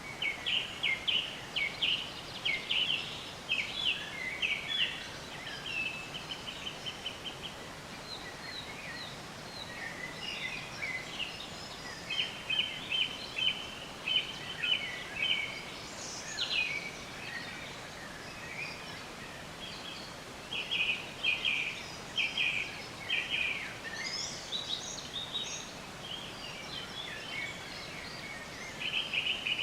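Songbirds chirping in repeated short phrases of quick high notes and trills, over a steady background hiss of outdoor ambience.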